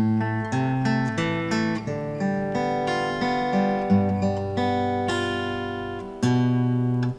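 Acoustic guitar fingerpicked in a waltz arpeggio pattern: single notes ringing over sustained bass notes that change every second or two, with a strong new attack about six seconds in.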